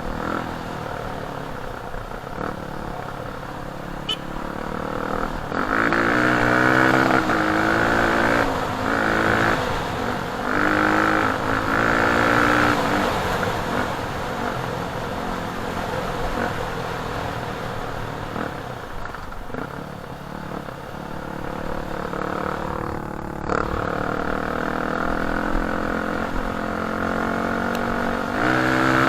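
Off-road dirt bike engine running on the move, revving up and easing off again and again as the throttle is worked, loudest around six to thirteen seconds in and again near the end.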